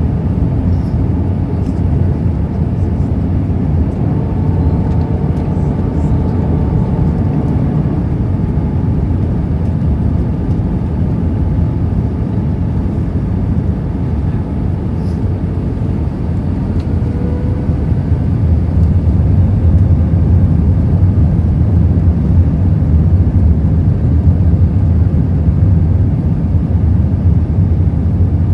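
Airbus A319 cabin noise: a steady low rumble of the engines and rushing air, with a faint whine on top. It grows somewhat louder about two-thirds of the way through.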